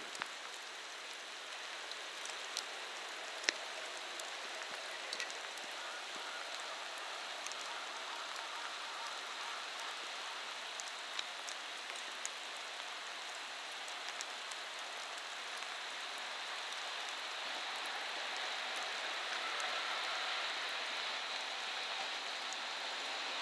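A steady hiss with scattered sharp ticks that grows slowly louder over the last several seconds as an EF210 electric locomotive hauling container wagons draws near at low speed.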